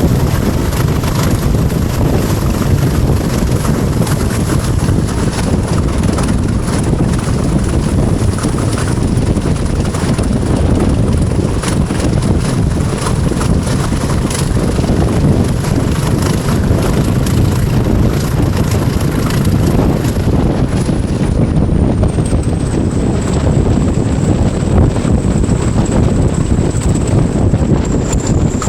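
Class 20 diesel locomotive's English Electric eight-cylinder engine working hard at the head of a train, a loud steady rumble with its high turbocharger whistle over it; the whistle drops in pitch about two-thirds of the way through.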